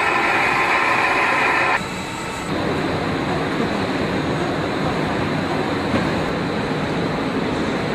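CNC mill-turn machine at work: a loud, many-toned cutting whine that cuts off suddenly about two seconds in, followed by a steady mechanical running noise.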